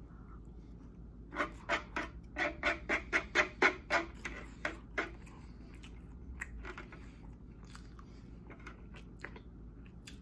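Close-miked chewing of a mouthful of rice with sauce: a quick run of wet mouth clicks and smacks, about three a second, loudest from about one to five seconds in, then fainter and sparser.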